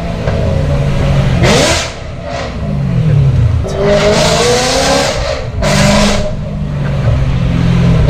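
BMW E92 M3's V8 revving up and falling away several times through a straight-piped, decat Armytrix valved exhaust, with three short bursts of harsh noise along the way.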